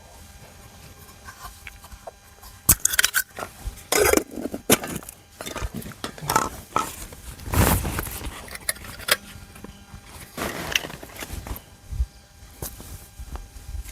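Irregular clinks, knocks and rustling of camp cooking gear being handled and cleared up.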